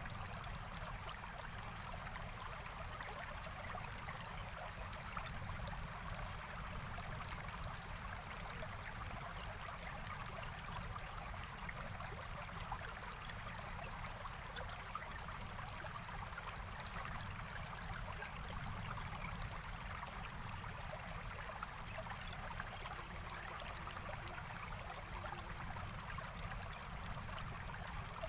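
Forest stream flowing steadily, a continuous even rush of running water.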